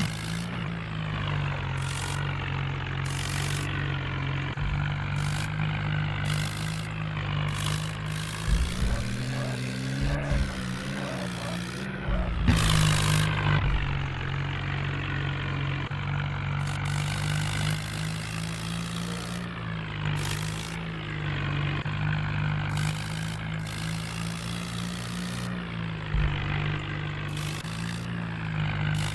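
Tractor's diesel engine running steadily under a hauling load. Its speed rises for a few seconds about a third of the way in, then drops back, with a louder clatter as it does. Scattered knocks run through the whole stretch.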